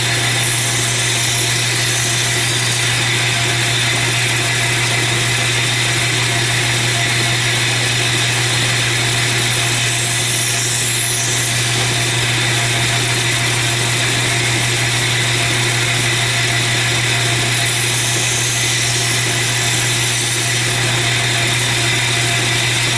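Belt grinder running steadily with its motor hum, with brief swells of higher hiss near the middle and again near the end.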